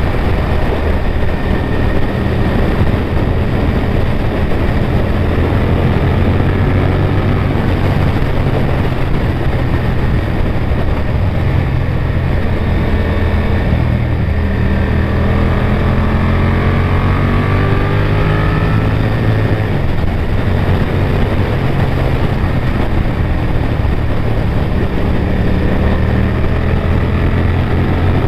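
Honda VTR1000F Firestorm's 90-degree V-twin engine running under way, its pitch climbing slowly through the middle and dropping suddenly about twenty seconds in, as at a gear change.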